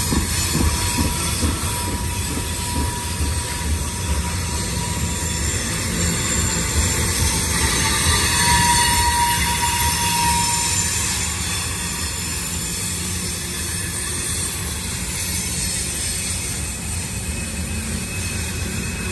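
A train rolling past steadily, its wheels rumbling on the rails with a thin squeal from the wheel flanges on the sharp curve; the squeal is loudest about nine seconds in.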